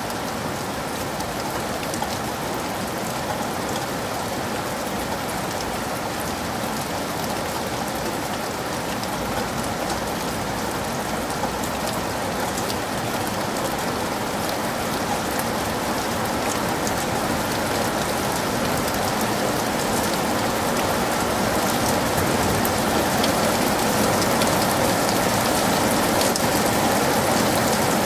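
Heavy rain falling steadily, a dense hiss of drops that grows slowly louder.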